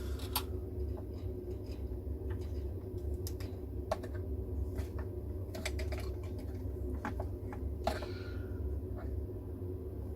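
Scattered light clicks and taps of small wiring connectors and plastic parts being handled and pushed into place inside an opened radio, over a steady low hum.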